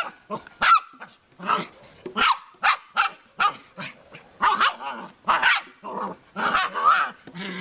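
A dog barking and yapping over and over, short pitched calls about two a second.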